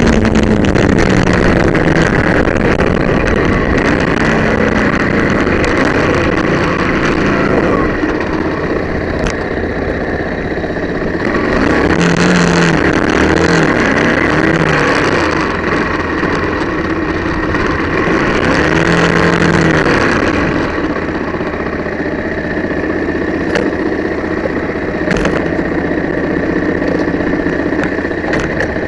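Yamaha WR125X's single-cylinder four-stroke engine running on the move, its pitch rising and falling as the rider works the throttle and gears, with louder stretches of revving twice in the middle.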